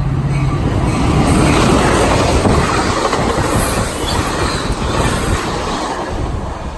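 A train passing close by at speed: a loud rush of wheels and rail noise with clattering knocks, swelling in the middle and easing off near the end.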